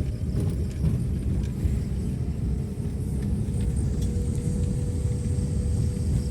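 Steady low rumble of a moving vehicle, engine and tyres on the road heard from on board, with a faint steady hum and a few light knocks.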